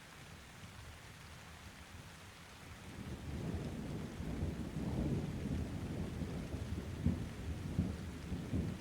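Steady rain with a roll of thunder that builds about three seconds in and keeps rumbling, with a couple of sharper peaks near the end.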